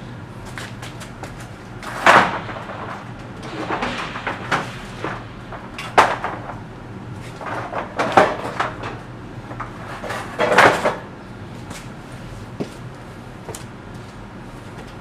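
Handling noise from the SL600's removed engine wiring harness being worked on: irregular clicks, knocks and rustles of wires and plastic connectors, with the loudest knocks about two, six, eight and ten seconds in.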